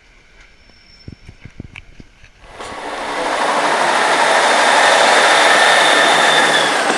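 A loud, steady hiss of steam from the steam locomotive 60163 Tornado, an LNER Peppercorn Class A1 Pacific. It starts suddenly about two and a half seconds in, after a few light knocks, and carries a thin whistling tone that sinks slightly near the end.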